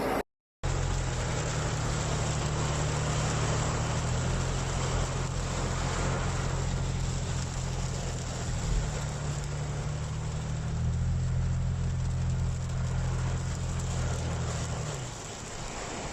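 A vehicle's engine hums steadily over a broad, even hiss of rain and wet-road noise. The hum stops about fifteen seconds in, leaving the hiss.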